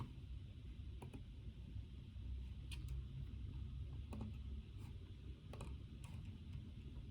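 Scattered keyboard typing and clicks, a few short taps a second, some in quick pairs, over a steady low hum.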